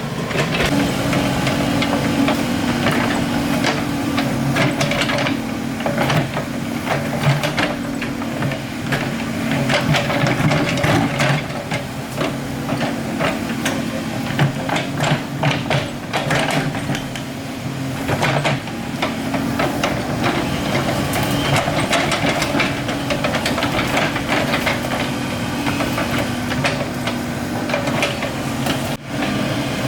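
Excavator's diesel engine running steadily under load, with frequent knocks and clanks of the machine working the ground. The sound drops out briefly near the end.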